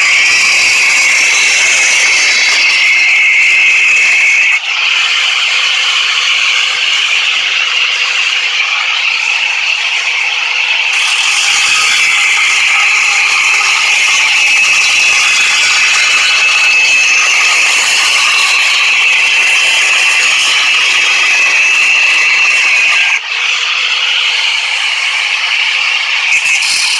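Continuous rasping, ratcheting metal-on-metal noise as a tube-shaped coin bank is forced open, with two sudden breaks.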